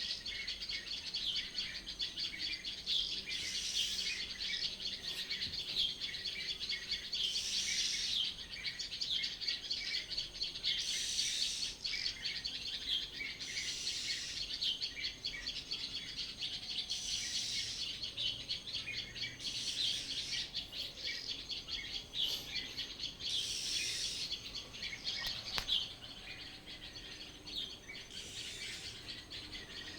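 A chorus of many birds chirping and singing together without a break, with a louder, higher call standing out every three to four seconds.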